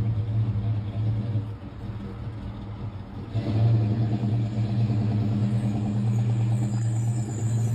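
1970 Plymouth Road Runner's original 383 V8 running with a steady low rumble. It drops back about a second and a half in and comes up louder again about three seconds in.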